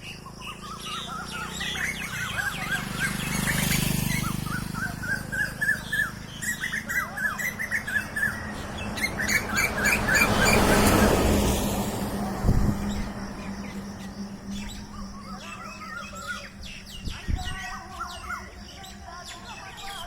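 A flock of many birds in one tree chirping and calling at once, with quick runs of repeated notes. A rushing noise swells and fades twice, loudest around the middle.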